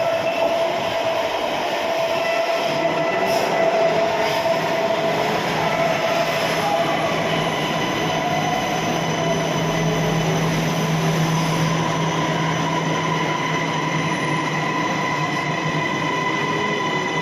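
A train running on the rails close by: a steady, loud rumble of the carriages, with high, sustained squealing tones from the wheels on the track.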